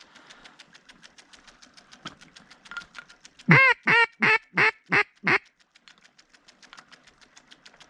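A quick run of six loud duck quacks, about three a second, each rising and falling in pitch.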